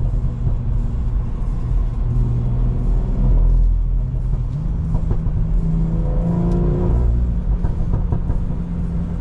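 Turbocharged BMW B58 inline-six running under light load while the car cruises, heard from inside the cabin. The engine's drone steps up in pitch about halfway through.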